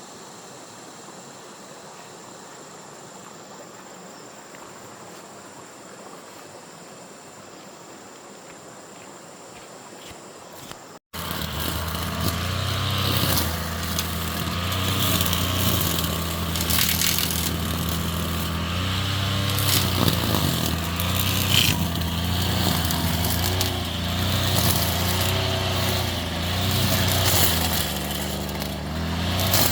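A faint steady background with a thin high tone. After an abrupt cut about eleven seconds in, a small engine runs loudly and steadily, its speed wavering a little.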